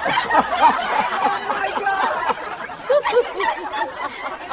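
People laughing, snickering and chuckling over one another.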